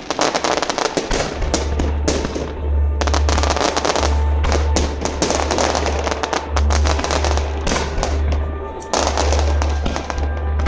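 Fireworks display: a dense, continuous run of bangs and crackling pops from exploding shells, with music playing alongside.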